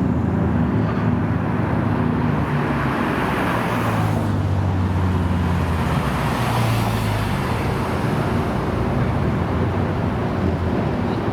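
Car engines running, with other cars driving past. A steady low engine hum throughout, with two swells as vehicles go by, about three and seven seconds in.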